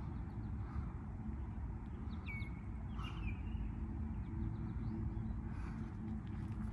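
A steady low rumble outdoors, with short bird chirps about two seconds in and again about a second later.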